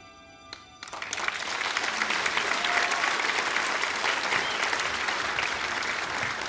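Theatre audience applauding, with some cheering, starting suddenly about a second in as the dance's music ends and keeping up steadily.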